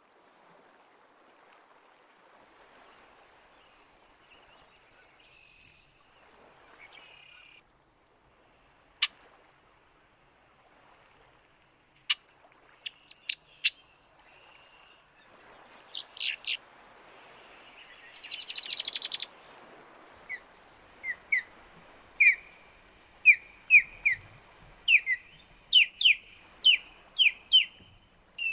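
Several wild birds calling: a fast, high trill about four seconds in, scattered sharp chips through the middle, and in the last third a steady run of short down-slurred notes, over a faint steady high tone.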